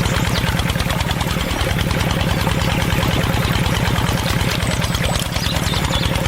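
Small engine of a homemade mini tractor running steadily at an even idle, a fast regular chugging.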